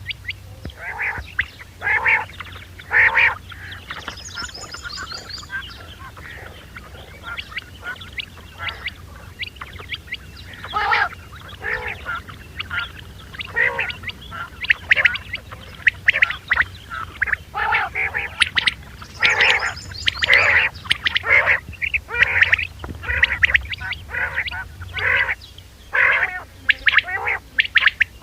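Quail calling over and over in short, sharp notes, several at a time in quick runs, over a steady low hum from the recording.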